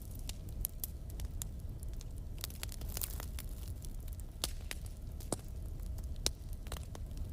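Wood fire burning in a fireplace: a steady low rumble with irregular crackles and pops, a few of them sharper and louder.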